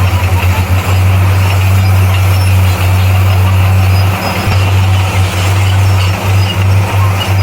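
Heavy diesel engine of a bulldozer running with a loud, steady low drone.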